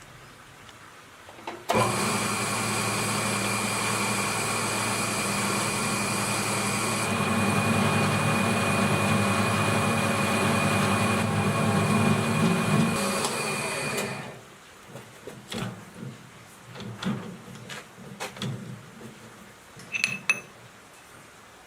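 An electric machine motor starts about two seconds in, runs steadily with a high whine, and stops at about fourteen seconds. Scattered clicks and knocks follow.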